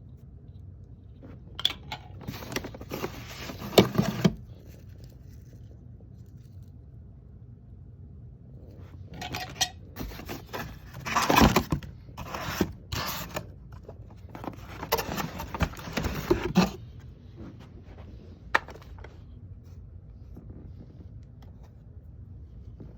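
Handling noises while unboxing a vacuum cleaner: scraping, rustling and sharp clicks of plastic and packaging, in a short stretch near the start and a longer one in the middle, then a single click.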